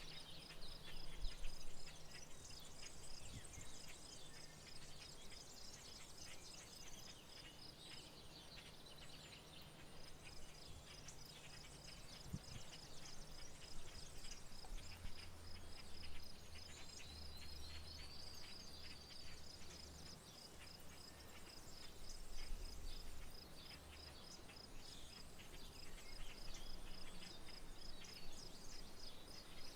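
Faint outdoor rural ambience: birds chirping and calling over a steady, high-pitched pulsing trill that breaks off briefly a quarter of the way in, with a faint low hum underneath.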